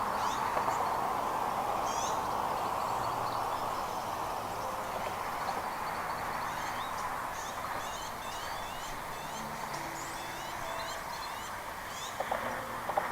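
Birds giving many short, high, falling chirps in quick scattered series over a steady rushing background, with a couple of small knocks near the end.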